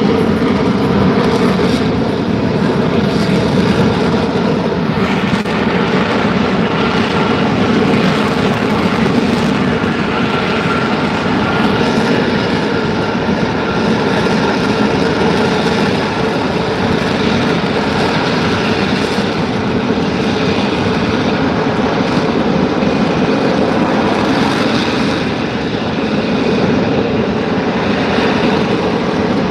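F-35B Lightning II hovering on jet thrust, its F135 engine and lift fan running at high power: a loud, steady blast with faint steady tones in it.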